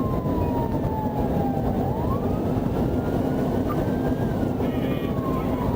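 Police patrol car siren on a slow wail: the pitch falls, sweeps back up about two seconds in, then climbs and falls again. It sits under loud, steady road and engine noise from the car at pursuit speed.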